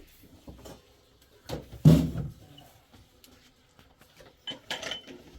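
A few scattered knocks and bangs, the loudest a heavy thump about two seconds in.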